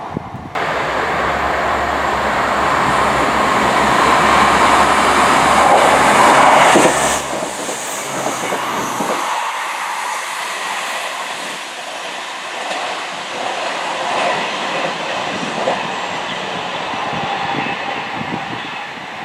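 A passing train: its sound starts suddenly and builds to its loudest about seven seconds in, then drops sharply. A low hum cuts out a couple of seconds later, and quieter wheel-on-rail clatter follows.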